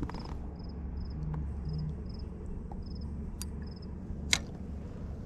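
Open-air background with a steady low rumble and a thin, high chirp repeating roughly every half second. A faint click comes a little past three seconds in, and a sharp click, the loudest sound, a little past four seconds in.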